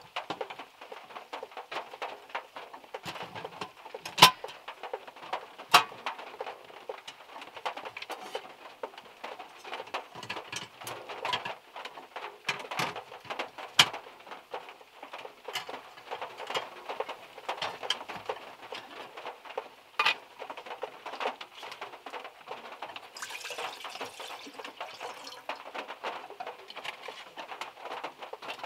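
Raindrops from the trees overhead landing on the roof of a small car, heard from inside the car: a dense, irregular run of small taps with a handful of much louder single drops.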